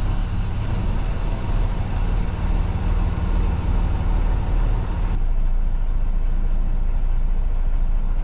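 Semi truck's diesel engine running steadily at low speed, heard from inside the cab as the truck pulls forward in line.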